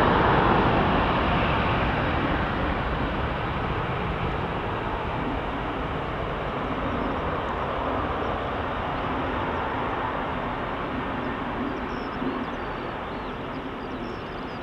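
Air Transat Airbus A310-304 departing under takeoff power: a steady rush of jet engine noise, loudest at the start and slowly fading away.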